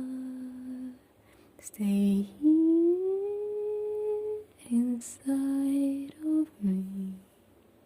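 A woman humming a slow, lullaby-like melody without words, in long held notes with a gentle upward slide, the last note ending about seven seconds in.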